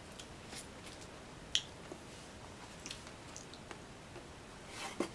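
Faint chewing of a chocolate-covered coffee bean crunch snack, with scattered small clicks and one sharper click about one and a half seconds in.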